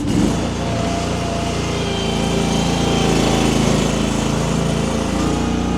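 Baumalight mini skid steer's small engine running steadily, its pitch shifting a little as the machine works.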